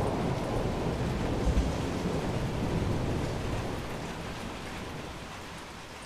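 Thunder rumbling over steady rain, the rumble peaking about a second and a half in and then dying away over the last few seconds.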